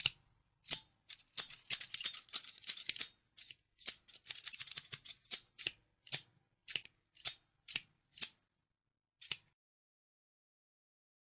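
Scissors snipping: quick runs of rapid cuts, then single crisp snips about every half second, stopping about nine seconds in.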